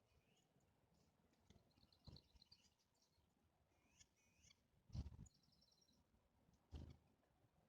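Faint calls of small woodland birds: short high chirps and quick runs of rapid notes, with three soft low thumps, the loudest about five seconds in.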